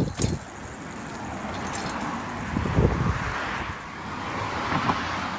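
Wind rumbling on a phone microphone during a bike ride, over a steady hiss of road and tyre noise, with a light click and rattle early on.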